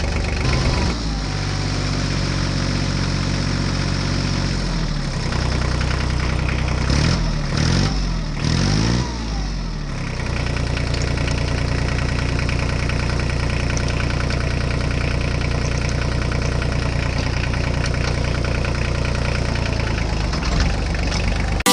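Small engine of a homemade mini tractor running. Its speed rises and falls several times near the middle, then it runs steadily.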